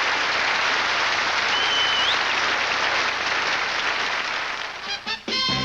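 Studio audience applauding steadily, with a single whistle about a second and a half in. The applause fades near the end as the band starts playing.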